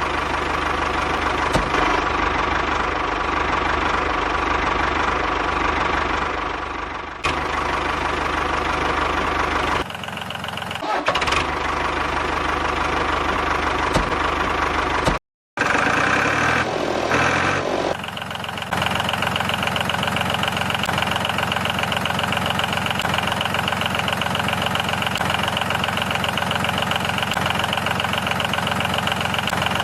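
Small diesel engine of a homemade mini tractor running steadily at idle. Its note changes abruptly at a few cuts, and the sound drops out briefly about halfway.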